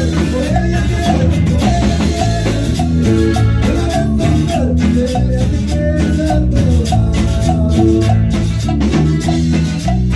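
A norteño band playing an upbeat song: a melody over a bass line with a steady beat.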